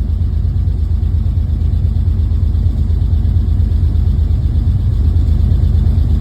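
Freshly built girdled stock-block engine running steadily on its first startup, a dense, even low rumble with no change in pace.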